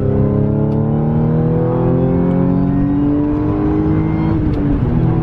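A 2015 Audi B8.5 S4's supercharged 3.0 V6 with a rear muffler delete accelerating gently, its pitch climbing slowly and steadily. About four seconds in the pitch drops a little, as at an upshift, and the engine then carries on under power.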